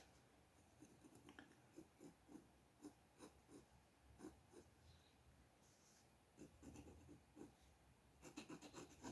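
Faint scratching of a drawing tool on paper: short strokes in irregular clusters, with a quicker run of strokes near the end.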